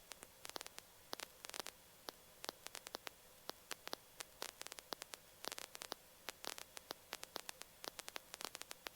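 Faint static on a headset intercom or radio audio line between transmissions: a low hiss with a faint steady hum and scattered small crackling clicks.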